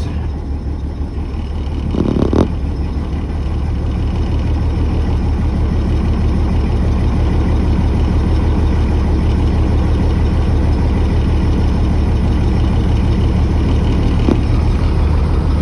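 International DT466E inline-six turbo diesel in a 2003 Blue Bird school bus running steadily just after catching on an ether-assisted cold start at 11°F. A brief thud about two seconds in.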